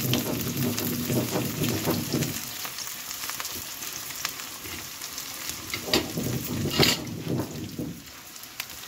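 Sliced onions and green chillies sizzling in hot oil in a steel kadhai, with a couple of sharper crackles about six and seven seconds in.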